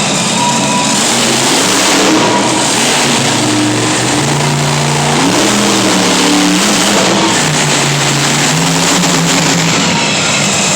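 Monster truck engines running loud and revving, their pitch rising and falling over a dense roar.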